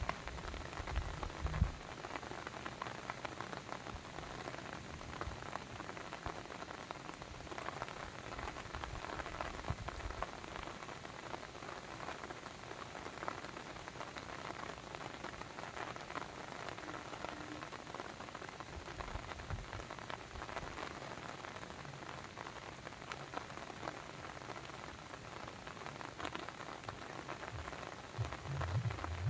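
Steady patter and splash of water, dense with small drop-like ticks, as of rain or a babbling brook. A few soft low rumbles come and go: at the start, about two-thirds of the way through, and near the end.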